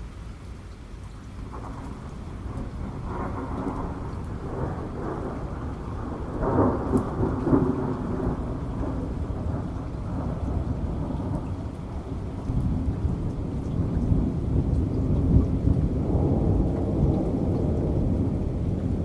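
Rolling thunder over falling rain: a long low rumble that builds a couple of seconds in, peaks about a third of the way through, then swells again in the second half.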